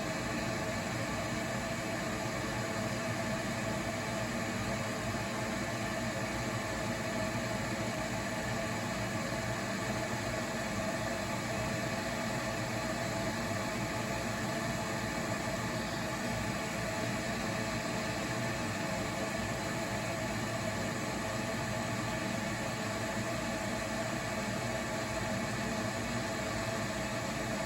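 Newly replaced furnace draft inducer motor running steadily: a constant fan whoosh with a steady motor hum.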